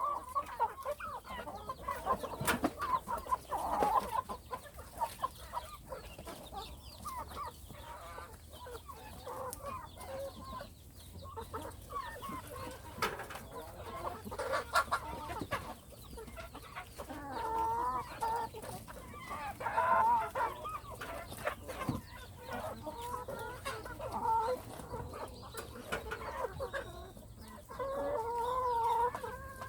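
A flock of chickens clucking, with short repeated pitched calls coming and going and several louder runs of clucking, and scattered sharp clicks.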